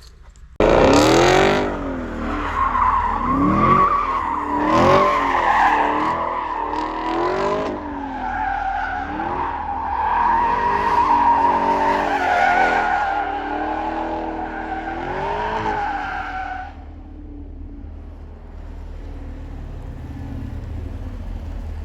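Camaro LT1 V8 revving hard, its pitch rising and falling over and over, with a high whine like tyres spinning and squealing on snow. Near the end the revving stops and the engine settles to a quieter, steady run.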